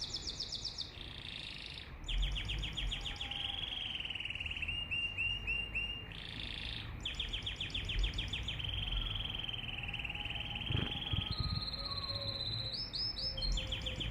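Domestic canary singing a long, continuous song: fast trills of rapidly repeated notes alternating with long held whistles and rolling phrases.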